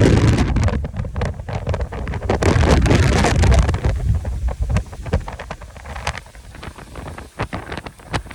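Strong Santa Ana wind gusts buffeting the microphone with a deep rumble, loud for about the first four seconds and then easing, with short crackles throughout.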